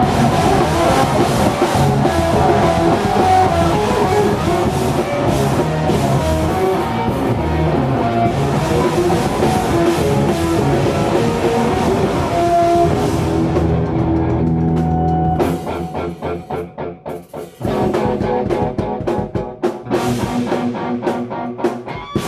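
Live heavy metal band playing loud distorted guitar with a drum kit; about two-thirds of the way through it breaks into rapid, clipped stop-start hits before the full band comes back in.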